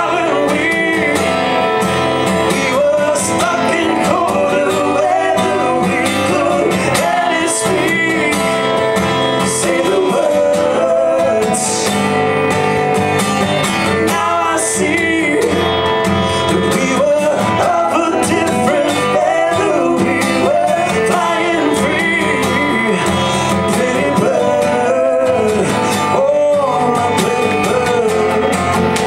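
Live music: guitar strumming, with a melody line that bends and glides over it, played without a break.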